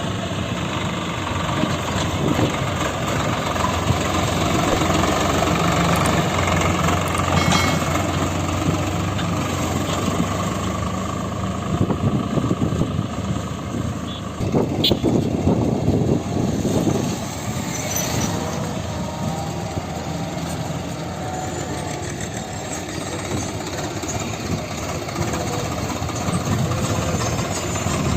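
Heavy diesel engine of farm machinery running steadily, a continuous low drone with engine noise throughout.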